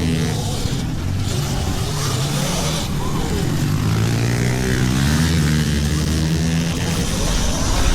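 Pit bike motorcycle engines running and revving, their pitch rising and falling.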